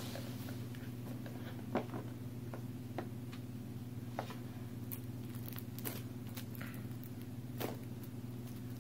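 Hands handling packaging or a tape: scattered light clicks and taps, a few a second apart, over a steady low electrical hum.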